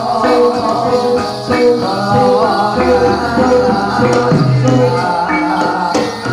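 Javanese jatilan dance music: a gamelan-style ensemble playing a steady rhythmic piece, with pitched metal instruments sounding held notes over drum and rattle-like percussion strokes.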